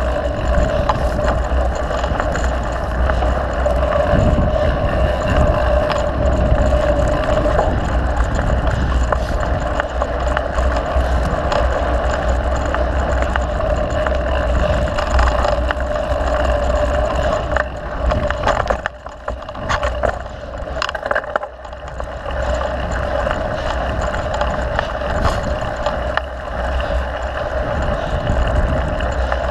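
Mountain bike rolling along a dirt trail: continuous tyre and riding noise with heavy wind rumble on the camera microphone. It drops quieter for a few seconds a little past the middle, then picks up again.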